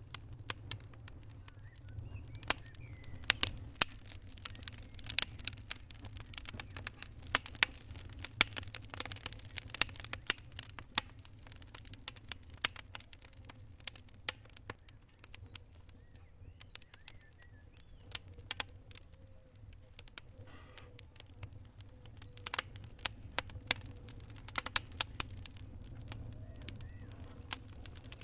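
Wood fire crackling: irregular sharp pops and snaps over a low steady rumble, coming thick and fast in stretches and thinning out in the middle.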